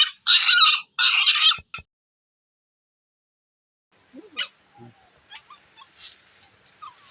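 Puppy whining in loud, high, wavering cries for the first second and a half, then cutting off suddenly to silence. From about four seconds in come faint scattered rustles and clicks.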